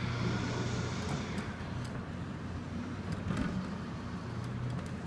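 Claw machine in play: a steady low motor hum with a few faint clicks as the claw is moved.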